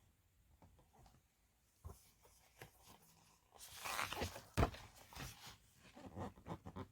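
A book's paper pages being handled and turned: faint clicks, then a rustle of paper about halfway through with a sharp knock in it, and smaller rustles after.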